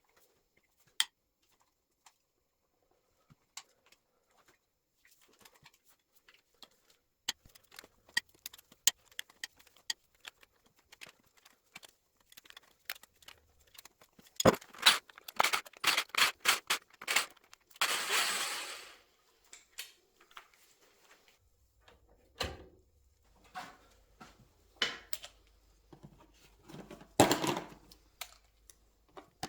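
Metal hand tools and engine parts clicking and clinking during cylinder head removal on a Yamaha R1 engine: scattered light taps at first, then a dense run of sharp knocks about halfway, a brief rasping rush of about a second, and a few more knocks near the end.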